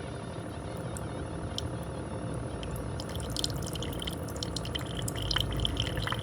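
Ninja PB051 single-serve coffee maker brewing: a steady hum, with coffee trickling and dripping into the cup from about halfway through.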